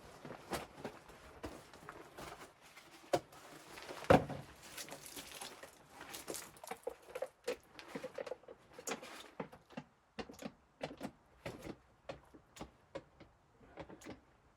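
A run of irregular clicks, knocks and light rattling, with two sharper knocks about three and four seconds in and a quicker patter of clicks in the second half, typical of gear being handled in a small enclosed space.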